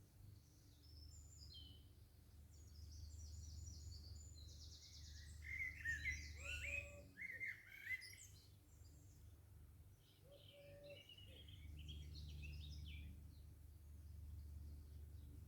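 Garden birdsong: several small birds chirping and singing, loudest in a burst about halfway through and again a little later, over a faint steady low rumble.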